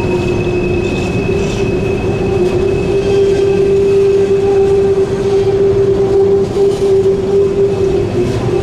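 Empty coal hopper cars rolling past on a curve: a steady rumble under a steady, high-pitched wheel squeal that grows louder about three seconds in.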